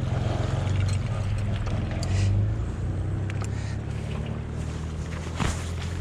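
An engine running steadily at a low idle, swelling briefly about two seconds in, with a few light clicks over it.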